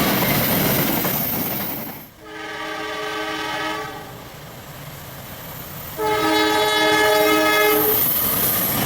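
Train running past with the steady noise of its wheels and wagons, then a diesel locomotive horn sounding two long blasts, each about one and a half to two seconds, the second louder. The rush of the passing train returns near the end.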